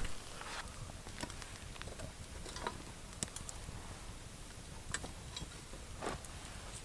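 Scattered light clicks and ticks, spaced irregularly, from hands handling camp cooking gear and food.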